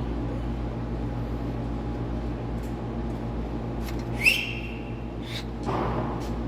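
Steady low hum of running shop machinery, with one sharp, short high-pitched ring or squeal about four seconds in.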